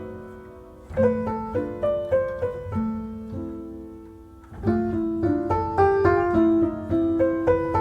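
Background piano music: gentle melodic phrases of struck notes that fade away, with a pause about one second in and another about four and a half seconds in before the playing picks up again.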